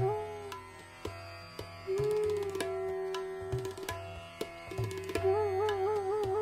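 Bansuri flute playing raga Bhopali in Hindustani classical style over tabla. The flute holds one long note from about two seconds in, then breaks into a quick wavering, ornamented phrase near the end, while the tabla keeps up regular strokes.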